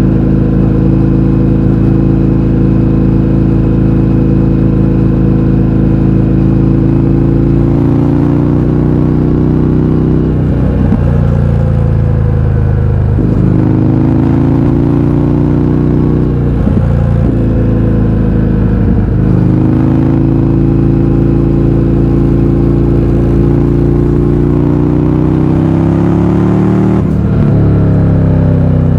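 Indian FTR 1200's V-twin engine running through an Akrapovic exhaust with the baffles removed. The engine holds a steady note for several seconds, then its pitch changes several times, dropping at each gear change or throttle lift and climbing again as it accelerates.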